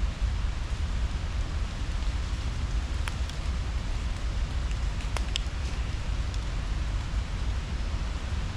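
Steady outdoor noise: an even hiss over a strong, unsteady low rumble, with a few faint light clicks about three and five seconds in.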